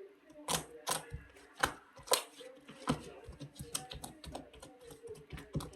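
A series of irregular sharp clicks and taps, a dozen or so, uneven in spacing and loudness.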